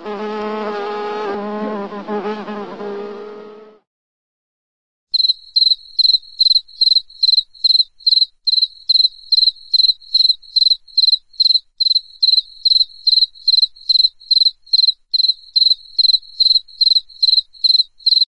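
An insect buzzing in a steady drone for about four seconds. After a short gap, a cricket chirps at an even pace, about two or three high chirps a second.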